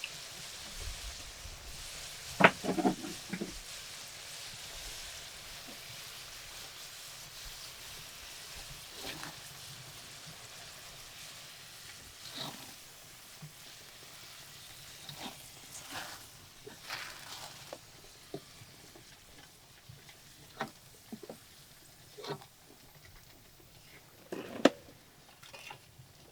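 Food frying in hot oil: a steady sizzling hiss that slowly dies down, with scattered clicks and knocks, the sharpest about two and a half seconds in and another near the end.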